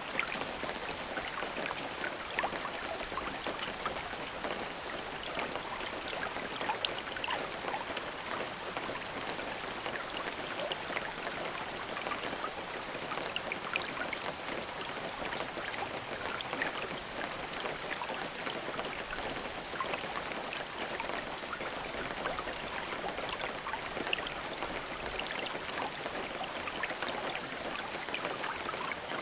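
Steady rain falling, a dense patter of individual drops hitting a surface.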